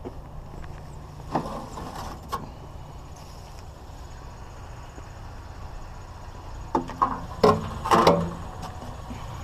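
A car engine idling steadily, with a couple of sharp knocks early on and then a cluster of louder metallic clanks about seven to eight seconds in, as scrap aluminum trim is handled.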